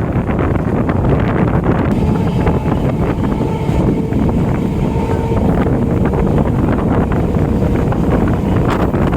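Steady running noise of an electric multiple-unit (EMU) local train in motion, heard through heavy wind buffeting on the microphone. A faint steady whine shows through for a couple of seconds in the middle.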